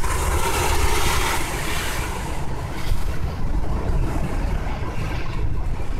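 Strong gusting wind, buffeting the microphone with an uneven low rumble under a rushing hiss. The hiss is strongest for the first two seconds, then eases off.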